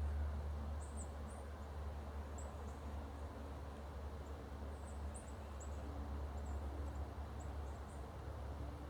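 Small songbirds giving short, very high thin chip calls, over a dozen scattered irregularly, over a steady low rumble.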